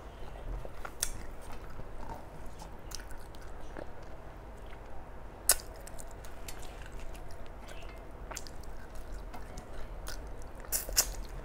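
Close-miked chewing and wet mouth sounds of someone eating a rice meal, with scattered short clicks and a sharper click about five and a half seconds in.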